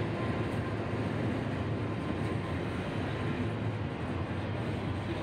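Double-stack intermodal container train passing at a steady speed: the even, continuous noise of its cars' wheels rolling on the rails.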